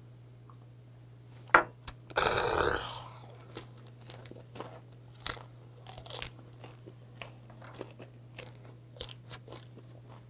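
Two sharp knocks, then a loud breathy exhale just after a soju shot. After that comes close-up chewing of gwamegi (half-dried saury) wrapped in dried laver, with small irregular crunches and wet mouth clicks.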